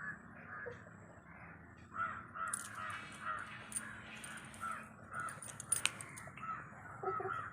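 A quick series of short, repeated animal calls, about two or three a second, starting about two seconds in.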